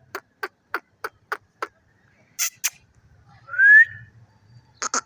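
Pet parrot calling: a run of short clicking notes about three a second, two sharp high clicks, then one loud rising whistle. Quick chattering notes start near the end.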